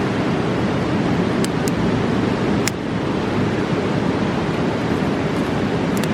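Mountain river rushing steadily, with a few sharp pops from a crackling campfire.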